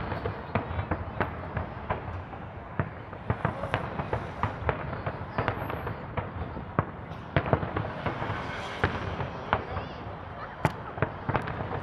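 Fireworks display: a rapid, irregular string of bangs and crackles from bursting aerial shells over a continuous low rumble.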